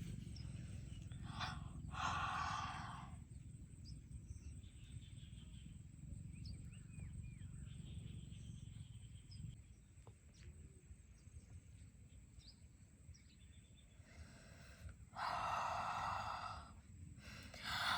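Outdoor ambience with a steady low rumble, broken by short breathy rushes of noise about two seconds in and again near the end.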